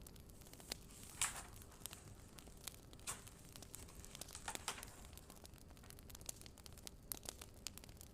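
Wood fire crackling faintly, with irregular sharp pops and snaps and a few louder crackles.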